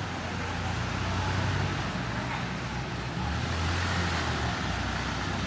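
Motor vehicle traffic running: a steady low rumble of engines with road noise, swelling slightly in the second half.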